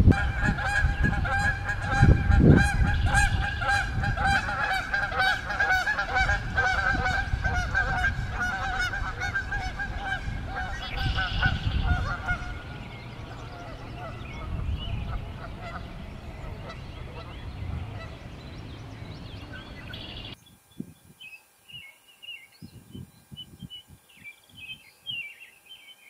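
Birds calling: a continuous wavering call with a low rumble underneath, fading over the first half. After an abrupt cut, only scattered high chirps are heard.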